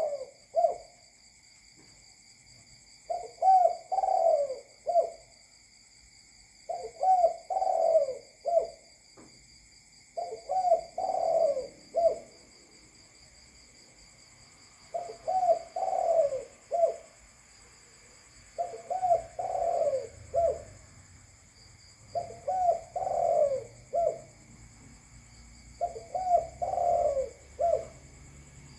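Spotted dove cooing: the same phrase of several short coos repeated seven times, one phrase every three to four seconds.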